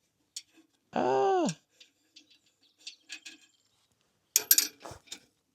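A short pitched vocal sound that arches and falls in pitch about a second in. Near the end comes a quick burst of clicks and crinkling from a plastic bag of small screws being handled.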